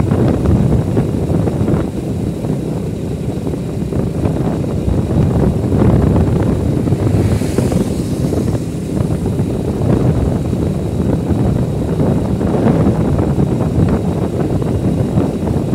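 Wind buffeting the microphone on a moving motorbike, a steady low rumble that rises and falls in gusts.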